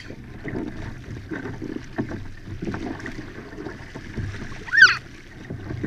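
Hobie pedal-drive kayak moving on the water: a steady low rumble of water and wind on the microphone, with scattered small knocks. A short high-pitched squeal about five seconds in.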